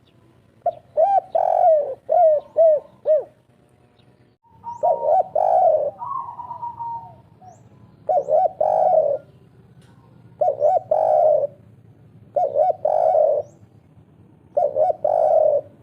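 Spotted dove (derkuku) cooing in the three-note 'kuk 3' style, a male in breeding condition. Six phrases of short low coos, each phrase ending on a longer coo, come a second or two apart.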